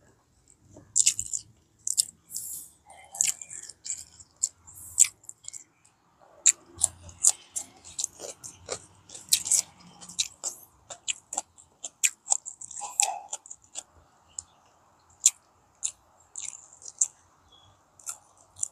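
Close-miked chewing of deep-fried fish and rice eaten by hand: quick, irregular wet mouth clicks and smacks.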